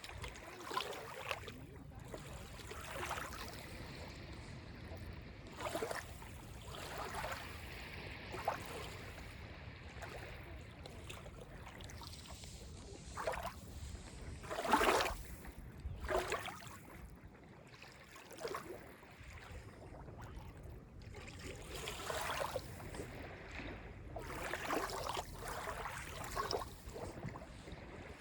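Small Lake Ontario waves lapping and splashing on the beach: irregular short washes every one to three seconds, one larger splash about halfway through.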